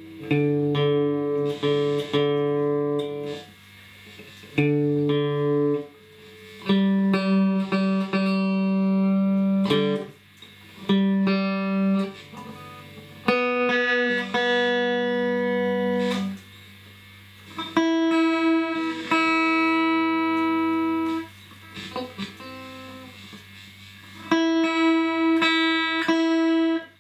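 Electric guitar played through a Fender tube guitar amp that has just been recapped: a series of sustained chords, each ringing for a second or three, with short pauses between. The notes come through clean, the test of a repair for distortion and crackling.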